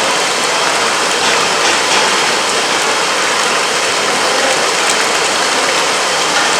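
Food frying in hot oil in a pan: a steady sizzle with faint crackles.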